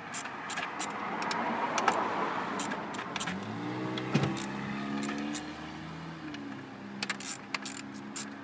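A mail delivery vehicle driving past fast. Its tyre noise swells about two seconds in, then its engine note rises a second later and holds before easing off near the end.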